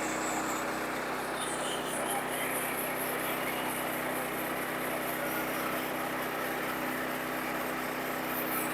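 Sawmill engine running steadily at constant speed, an even mechanical hum with no change in pitch or load.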